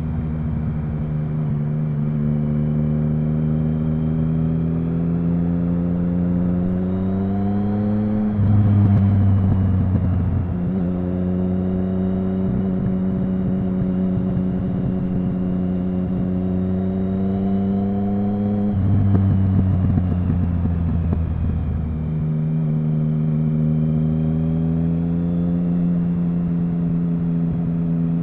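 Triumph Speed Triple 1050's inline-three engine running under way at steady, moderate revs. The pitch slowly rises and falls with the throttle. Louder low bursts come about 8 seconds in and again near 19 seconds, with shifts in pitch soon after each.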